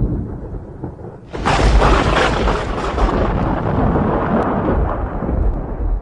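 Thunder: a low rumble dies away, then a sharp thunderclap breaks about a second in and rolls on as a long rumble that slowly fades.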